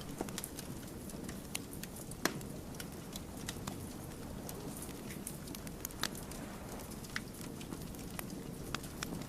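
Wood fire crackling: logs burning with a steady low rush of flame and irregular sharp pops and snaps, the loudest about two seconds in and another about six seconds in.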